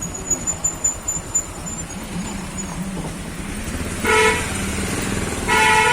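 Motorcycle engine running at road speed, with a vehicle horn tooted briefly about four seconds in and then held for a longer blast near the end.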